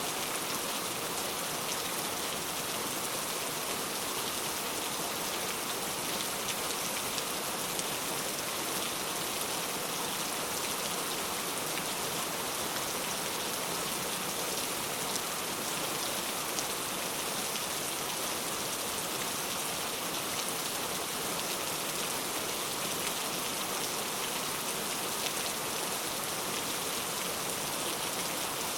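Steady rainfall, an even hiss with faint scattered drop ticks, mostly in the higher pitches with little low rumble.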